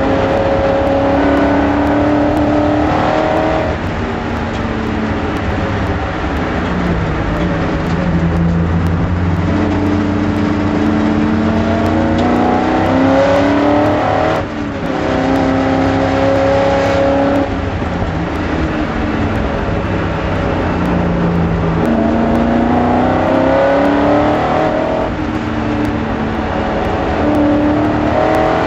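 BMW S62 V8 in an E30 race car, heard onboard at racing speed: the revs climb hard under acceleration, then fall away under braking and downshifts, several times over. About halfway there is a brief dip in the sound.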